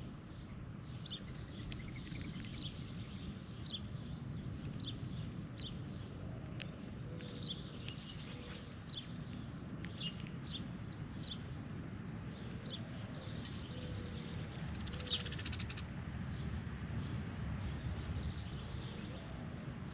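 Birds calling: many short, sharp chirps, several a second at their busiest, over a steady low rumble.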